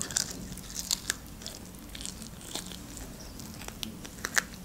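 Close-miked chewing of a crispy fried chicken wing: scattered small crunches and wet mouth clicks.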